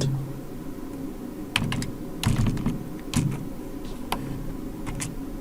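Computer keyboard being typed on in short, irregular runs of key clicks, with pauses between them.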